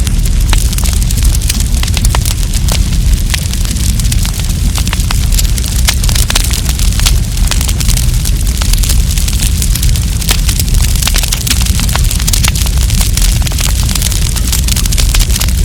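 Wood campfire crackling, with many irregular sharp snaps and pops over a steady low rumble.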